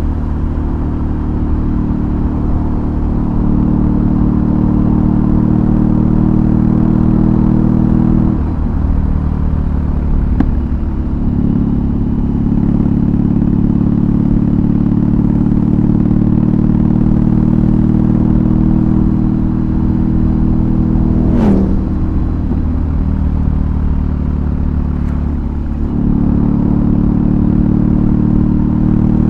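BMW R18's big boxer-twin engine running through a custom exhaust while riding along at a steady pace, its low note dipping briefly twice, about eight seconds in and again near the end, as with a gear change or throttle roll-off.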